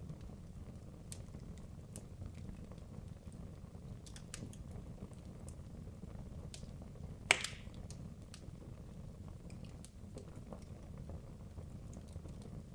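Wood logs burning in a fireplace: a steady low rumble of the flames with scattered small crackles, and one loud pop a little past the middle.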